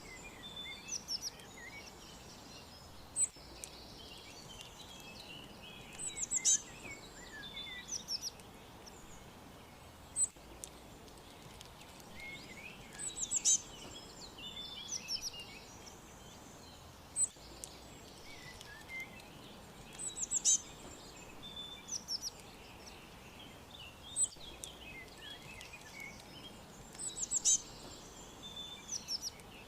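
Songbirds chirping and whistling in high, quick calls over a faint steady hiss. A louder cluster of calls comes back about every seven seconds, as if the same short stretch were looped.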